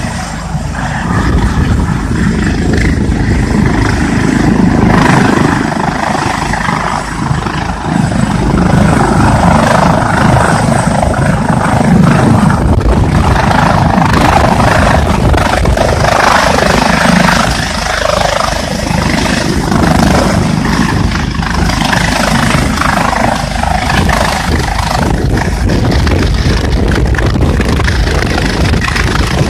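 Air ambulance helicopter running with its rotors turning, a loud, steady engine and rotor noise that swells and fades in strength, with gusty wind buffeting the microphone.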